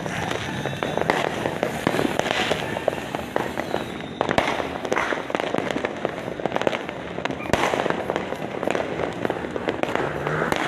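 Fireworks and firecrackers going off all around in dense, continuous crackling pops, with louder bangs every second or two.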